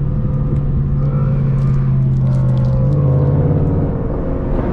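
Muscle car's engine running under way, a steady low drone whose pitch rises a little and then eases off with the throttle.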